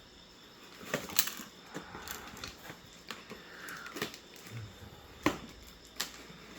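Hands handling a delivery parcel's packaging: a series of irregular sharp clicks and taps with some light rustling in between.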